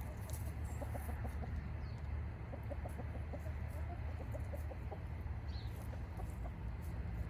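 Backyard chickens clucking softly, many short scattered clucks, over a steady low rumble.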